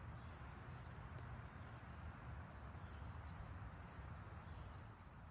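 Faint steady background in a pause between spoken lines: a thin high whine over a low hum.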